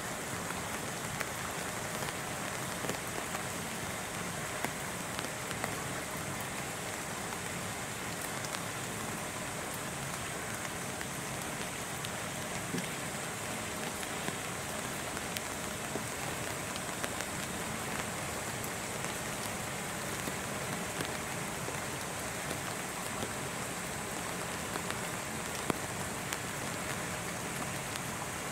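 Steady patter of rain, with scattered sharp drips.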